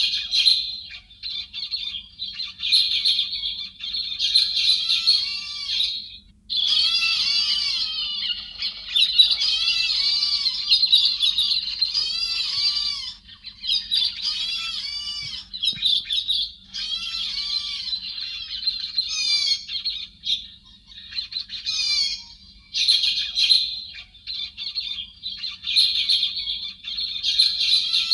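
Song of the héc xoan, a thrush-type bird: rapid, dense phrases of quick rising-and-falling whistled notes lasting a few seconds each, separated by short pauses.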